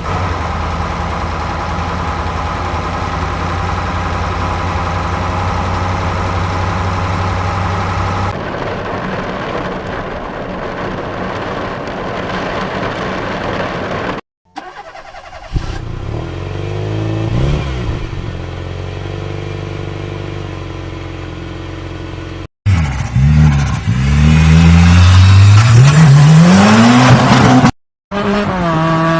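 A series of motor vehicle engine sounds cut together. A steady engine idle runs for about eight seconds, then a rougher running stretch. After a brief silence come revs rising and falling, and near the end a loud, fast-rising rev of an accelerating engine.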